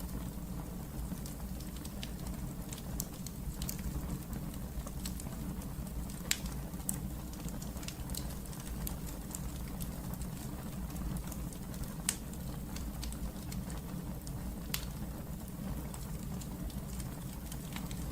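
Wood fire burning in a fireplace: a steady low rumble of flame with scattered sharp crackles and pops, two louder snaps about six and twelve seconds in.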